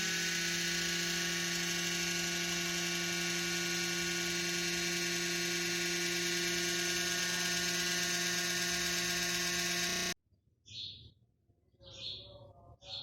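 Small PC motherboard cooling fan running with a steady, many-toned electric whine, noisy from a dry rotor shaft bearing that needs oil; it cuts off suddenly about ten seconds in. Birds chirp after it stops.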